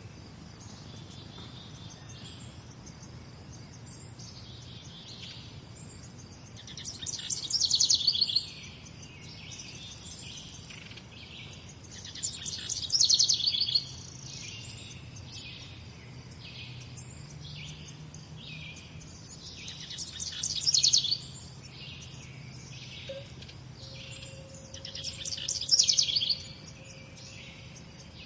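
Morning birdsong: one bird repeats a loud, rapid-note song phrase about every five to six seconds, with softer chirps from other birds in between, over a faint low hum.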